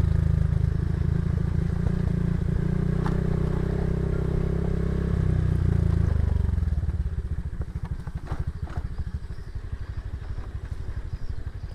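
Motorcycle engine running steadily under throttle, then easing off about six and a half seconds in to a lower, quieter beat of separate firing pulses as the bike slows.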